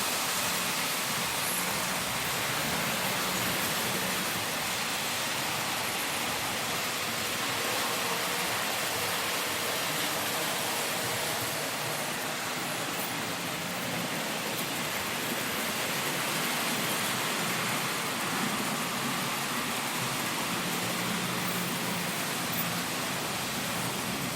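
H0 model trains running on a layout: a steady noise with a faint low hum that comes and goes.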